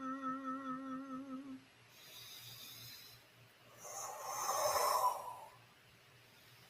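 A person's toned, hummed note, held with a slight waver, ending about a second and a half in. A few seconds later a breath is drawn in.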